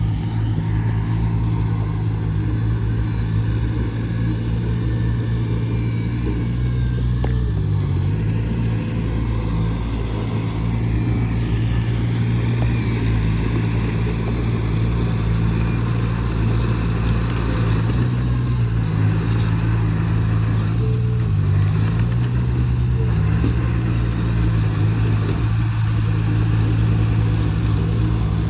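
Heavy diesel engine of a bulldozer running steadily and loudly with a low, even drone. The engine note dips briefly about eight seconds in and again a little past twenty seconds.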